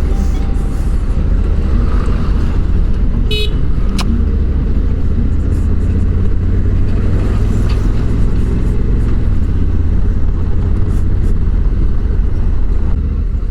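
Honda Africa Twin parallel-twin motorcycle on the move: a steady low rumble of engine, wind and road noise, with a short horn toot about three seconds in.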